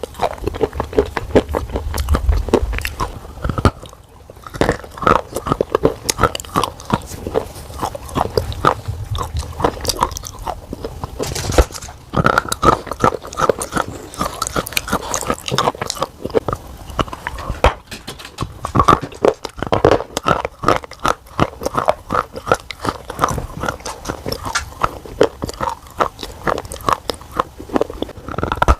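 Hard black cubes being bitten and chewed close up: many crisp, irregular crunches in quick succession.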